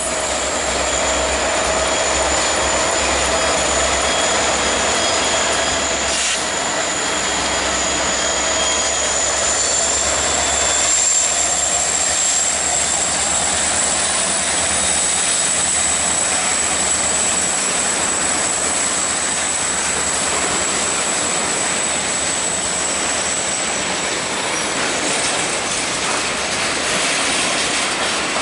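Freight train passing close by: a lashup of diesel locomotives runs by, then covered grain hopper cars, in a loud, steady rumble. A high, steady wheel squeal sits over the rumble and rises slightly in pitch about ten seconds in.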